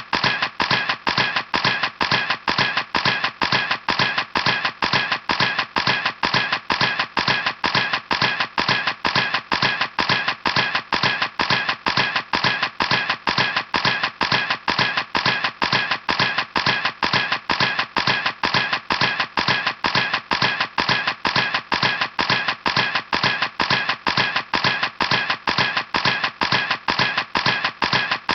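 Camera shutter clicking over and over in a steady, even rhythm, about three sharp clicks a second.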